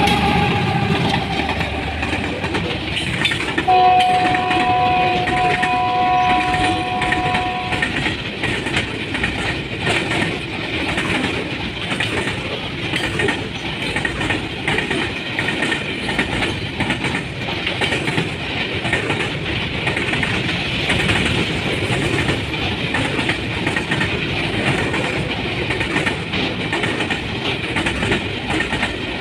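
Diesel-hauled container freight train passing close by, its wagons rumbling and clattering steadily over the rail joints. A multi-tone locomotive horn sounds for about four seconds, starting about four seconds in.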